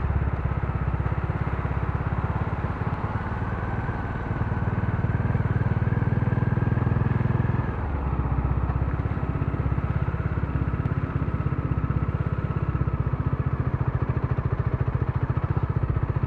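Modenas Dominar D400's single-cylinder engine running steadily, its note shifting and dropping a little about eight seconds in.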